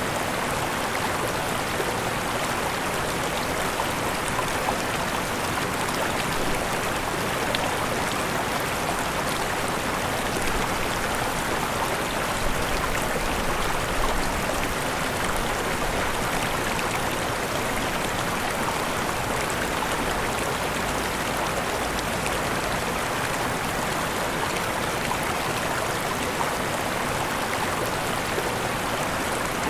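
Waterfall rushing: a steady, even wash of falling and splashing water.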